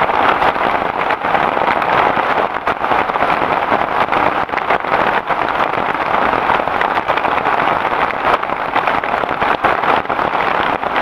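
Heavy rain falling steadily, a dense even hiss packed with many small individual drop hits.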